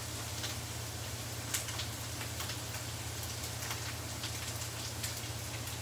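Food frying in oil in a pan on a gas stove: a steady sizzle with many small scattered crackles and pops, over a steady low hum.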